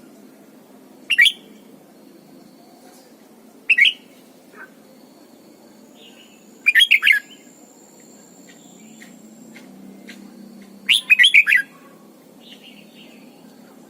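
Red-whiskered bulbul singing four short, loud phrases a few seconds apart, the last a quick run of several notes.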